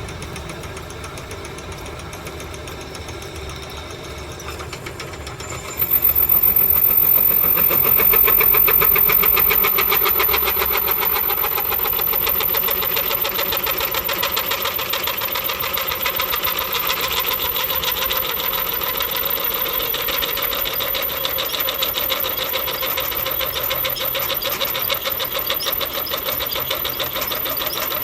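Electric drill boring into steel plate: the motor runs steadily, then gets much louder about six seconds in as the bit bites into the steel, and keeps cutting with a fast, even chatter.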